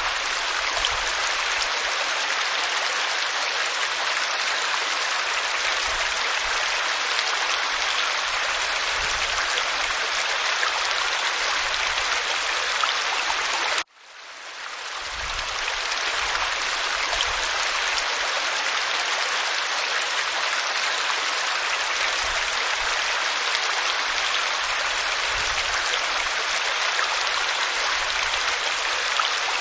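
Waterfall: a steady, even rushing of falling water. It drops out for an instant about halfway through and fades back up over a second or two.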